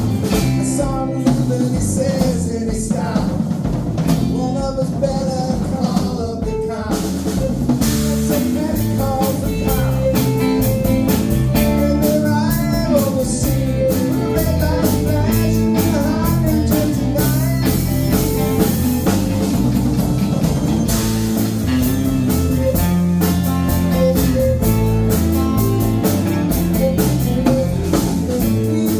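Band playing live: guitar and drum kit, with a singer's voice over them.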